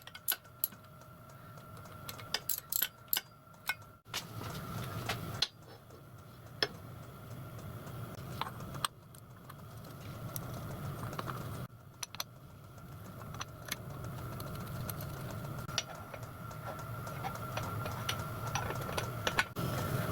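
Workshop metalworking machine running with a steady hum, with a quick series of sharp metallic ticks and taps over the first few seconds and a few more later; the sound changes abruptly several times.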